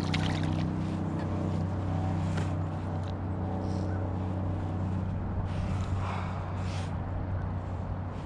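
Steady low motor hum, with a few short scratchy handling noises about two-thirds of the way in.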